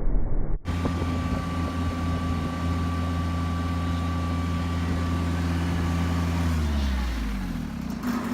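A vehicle engine running steadily at idle, cutting in abruptly under a second in, then slowing and winding down with a falling pitch near the end.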